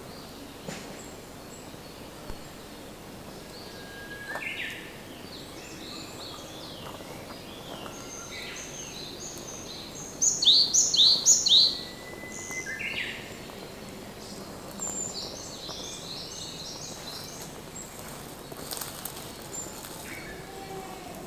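Wild songbirds singing: scattered chirps and short phrases, the loudest a quick run of about six high notes around ten seconds in, over a steady background hiss.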